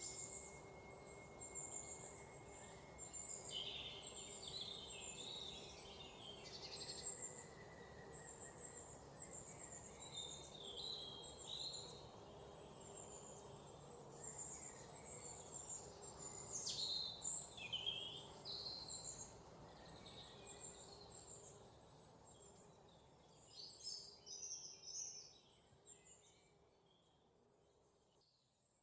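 Many songbirds chirping and trilling together over a faint steady background hiss, with a thin steady high insect-like tone in the first few seconds. The sound fades down over the last few seconds.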